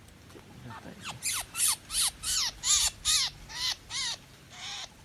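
A bird calling in a rapid series of short, pitched calls, about three a second, starting about a second in.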